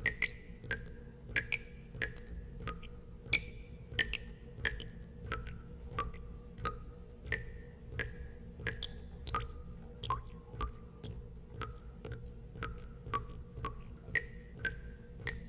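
Water drops falling into water, each a short pitched plink, coming irregularly about twice a second at varying pitches, over a steady low hum.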